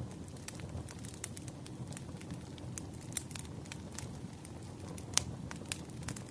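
Campfire crackling: a steady low rumble of burning wood with frequent sharp pops and snaps, the loudest pop about five seconds in.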